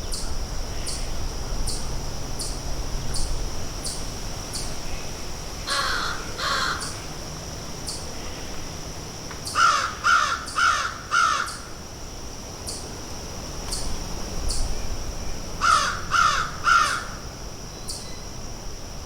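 Crows cawing in short runs of harsh calls: two caws about six seconds in, a run of four around ten seconds, and three more near the end. Behind them run a steady high-pitched whine and faint ticks about every 0.7 seconds.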